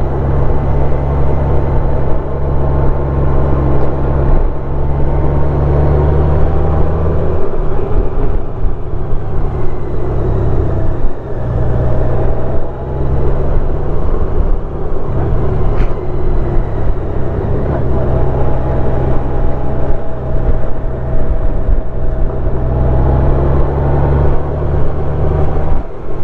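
Honda Gold Wing motorcycle engine running steadily while riding along a narrow road, easing off briefly a few times.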